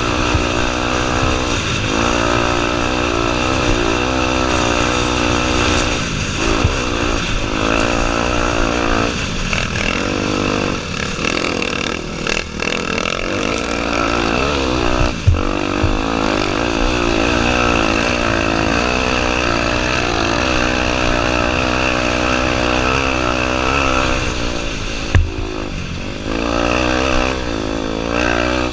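Honda Tornado 250's single-cylinder four-stroke engine running hard, its pitch rising and falling constantly with throttle and gear changes. Two sharp knocks stand out, one about halfway through and one near the end.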